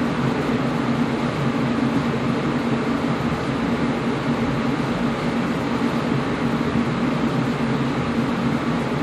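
Air conditioner running steadily: an even rush of air over a low hum, with no change throughout.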